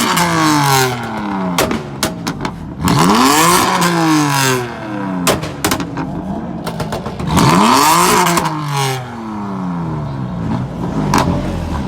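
BMW M3/M4 exhaust, the engine revved three times. Each rev rises quickly and falls back more slowly, with sharp pops and crackles from the exhaust between the revs.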